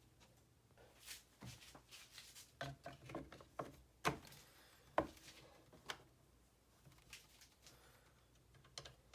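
Irregular light clicks and knocks, about a dozen, the sharpest about four and five seconds in: small objects being handled or set down.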